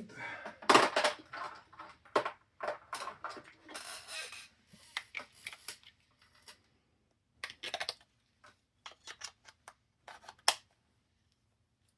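Small plastic clicks and rattles of a handheld infrared remote control being handled while its batteries are checked, dense for the first few seconds, then a few scattered clicks before it stops near the end.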